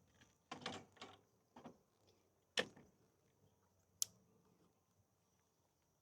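A few scattered knocks and clicks of handling or tool work. The loudest are a sharp knock about two and a half seconds in and a short click about four seconds in.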